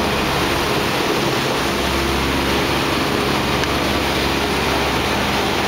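Studio tour tram running, a steady rushing noise with a low hum under it.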